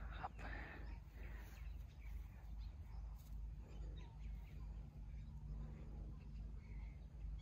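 Faint outdoor ambience: birds chirping quietly now and then over a low steady hum.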